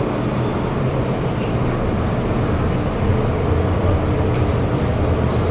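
MTR Island Line metro train running at speed through the tunnel, heard from inside the carriage: a steady loud rumble and rush of wheels on rail, with a few brief high squeaks.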